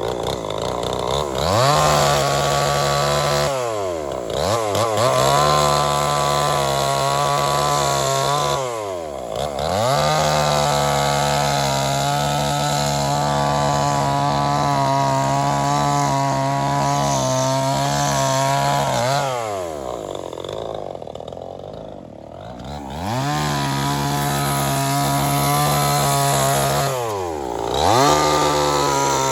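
Chainsaw engine running at high revs while cutting wood. Its pitch falls and climbs back several times between cuts, with one longer drop toward idle about two-thirds of the way through.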